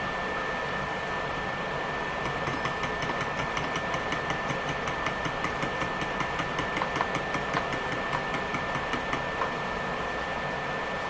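Steady whir of a portable burner's cooling fan with a thin high whine. From about two seconds in, a fast, even clinking at about five or six strokes a second, stopping about nine seconds in: eggs being beaten with a utensil in a bowl.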